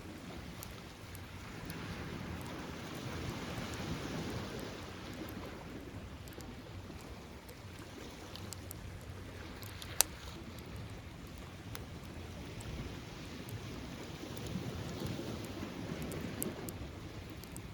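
Beach bonfire crackling with scattered small pops and one sharp loud pop about ten seconds in, over the wash of surf that swells and fades twice.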